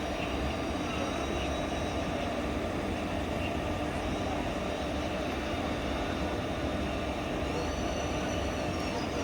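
Train running along the track: a steady rumble of wheels on rails.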